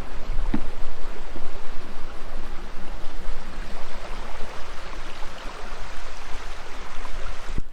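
Steady rushing of wind on the microphone with rolling noise from an electric unicycle being ridden along, with an occasional faint knock.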